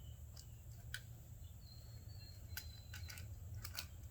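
Faint, scattered sharp clicks and light knocks as a camshaft position actuator solenoid is wiggled back and forth by hand to work it out of its bore in the engine, over a steady low hum.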